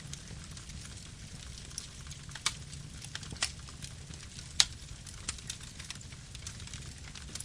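Campfire burning: a steady low rumble under irregular sharp crackles and pops of burning wood, the loudest pop about halfway through.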